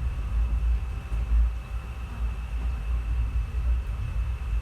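Passenger train running, heard as a low, uneven rumble with a faint steady high tone above it.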